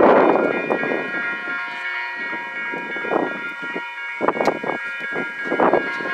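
Caltrain passenger train running by: irregular surges of rumbling wheel-on-rail clatter over a steady high-pitched whine.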